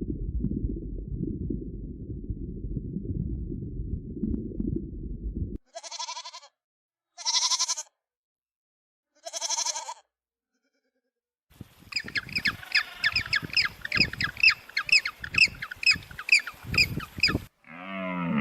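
Goat bleating three short times, after a low rumbling noise that cuts off suddenly. A fast run of high, repeated animal calls follows near the end.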